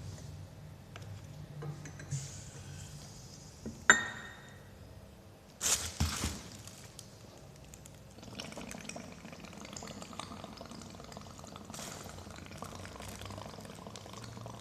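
Laboratory glassware: a sharp glass clink about four seconds in, then a short splashy burst of liquid around six seconds. From about eight seconds a steady bubbling sets in as carbon dioxide gas is passed into limewater.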